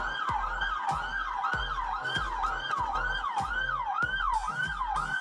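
Toy police car's electronic siren wailing in a fast repeating up-and-down sweep, about two cycles a second, over a regular low thumping beat.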